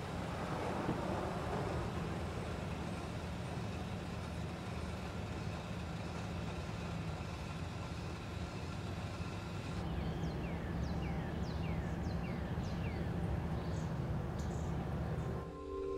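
Car engine idling steadily, a low even hum. From about ten seconds in, a bird chirps in a run of quick falling notes. Just before the end the engine sound cuts out and soft ringing music tones begin.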